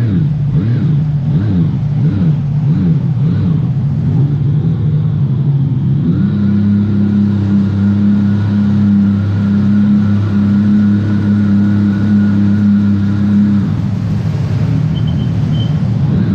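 Sea-Doo GTS 130 personal watercraft engine running under way. For the first few seconds its pitch rises and falls with the throttle, then it holds steady at higher revs for about seven seconds before easing off.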